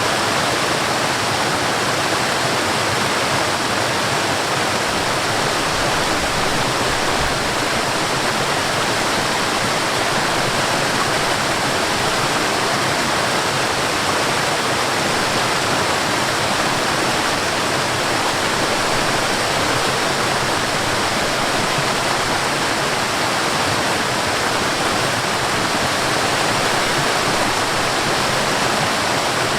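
Steady rushing of a stream and a small waterfall: water flowing and cascading in an even, unbroken wash of sound.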